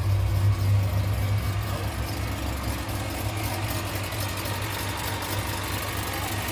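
Vehicle engine idling steadily with a low, even exhaust hum, a little louder in the first second or two; the exhaust leaks have just been fixed, so there is no puffing or ticking from leaking joints.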